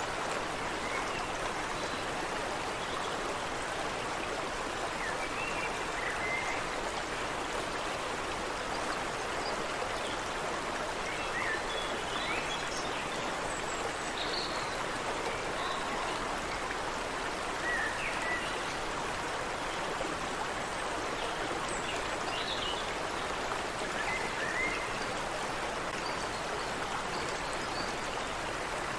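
Creek water running steadily, with scattered short bird chirps over it every few seconds.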